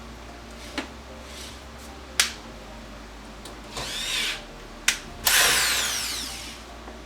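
Short whirring bursts of a small power tool, with sharp clicks in between; the last burst is the loudest and longest and falls in pitch as it runs down.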